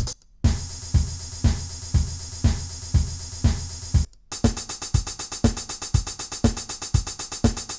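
Drum-machine loop in Soundtrap's drum sequencer: a kick drum about twice a second under fast, steady hi-hat ticks. It cuts out briefly just after the start and again about four seconds in, then starts again with a brighter sound as a different drum kit is tried.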